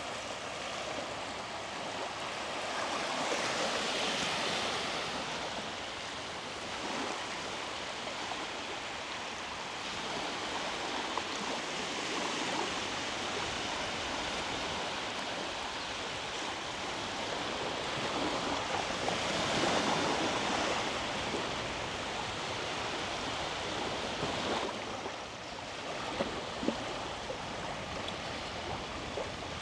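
Sea waves washing onto a beach, a steady wash of surf that swells twice, about four seconds in and again past the middle.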